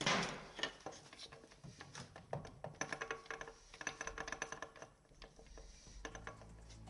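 Metal parts and hand tools clicking and clinking irregularly as they are handled on the gearbox, with a few short metallic rings.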